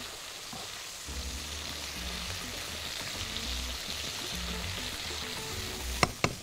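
Garlic and sun-dried tomatoes sizzling steadily in hot oil in a frying pan as they are stirred with a spatula, with a few sharp clicks near the end. Low background music plays underneath.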